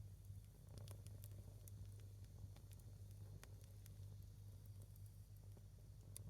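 Faint crackling of a single wood log burning in a small fire: scattered sharp pops and ticks at irregular intervals, over a low steady hum.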